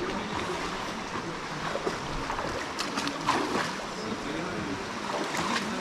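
River water rushing steadily, with a few brief knocks or splashes about halfway through and near the end.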